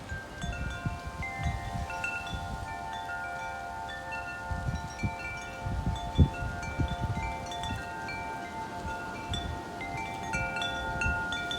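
Wind chimes ringing in strong, gusty wind, many overlapping notes struck again and again, with the wind buffeting the microphone as uneven low rumbles.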